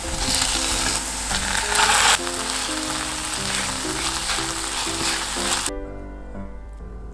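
Oil sizzling in a frying pan as sliced green onions and spam fry, then spam and kimchi sizzling as they are stir-fried, over light background music. The sizzling is loudest in the first two seconds and stops about five and a half seconds in, leaving only the music.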